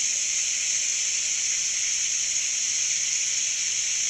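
A steady, loud hiss with no rhythm or tones in it.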